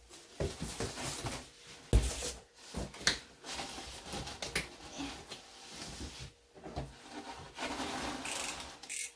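A cardboard box being handled and opened: scraping, rubbing and rustling of cardboard with scattered knocks, the loudest a sharp thump about two seconds in.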